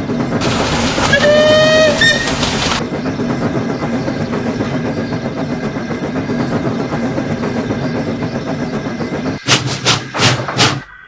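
Steam locomotive whistle sounding for about two seconds, with a slight rise in pitch, over the noise of a train running. The train's steady running continues, and four or five short sharp bursts come near the end.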